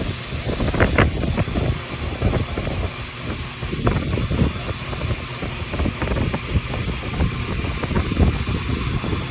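Grizzly 2x42 belt grinder running, with a steel knife blade ground against its 100-grit belt; the grinding noise rises and falls unevenly as the blade is worked.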